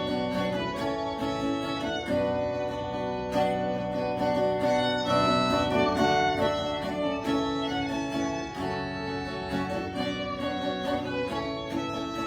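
Violin and acoustic guitar playing an instrumental break in a folk ballad, with no singing.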